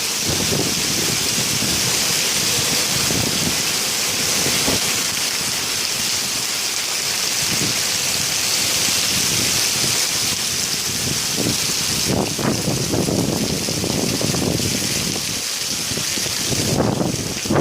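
Heavy rain pouring down in a steady dense hiss, with gusts of strong wind rumbling on the microphone now and then, strongest about twelve seconds in and near the end.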